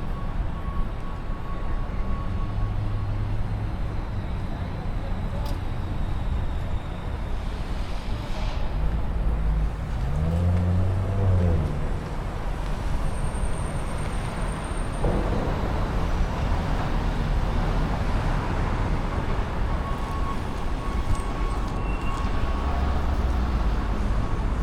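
City street traffic: a steady rumble of passing cars, with one vehicle's engine rising in pitch as it pulls away about ten seconds in. A thin steady high tone sounds at the start and again near the end.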